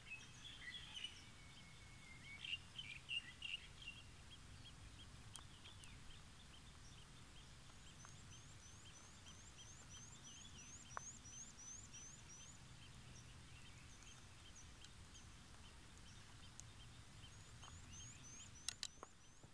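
Faint birdsong outdoors: a few chirps at first, then a bird repeating a short, high call about three times a second, over a faint low background hush. Two sharp clicks near the end.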